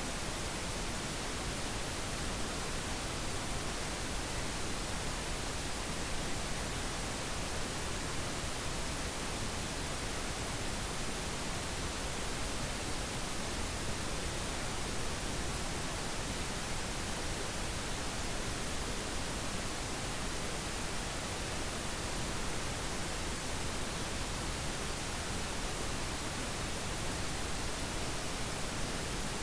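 Steady pink noise: an even, unchanging hiss across the whole range of pitch, with no rhythm or events.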